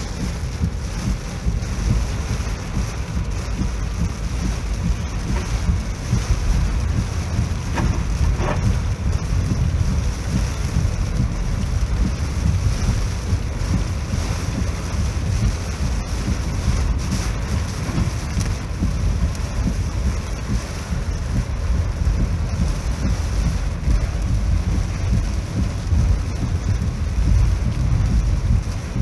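Typhoon wind buffeting the microphone in gusts, over a steady rushing hiss.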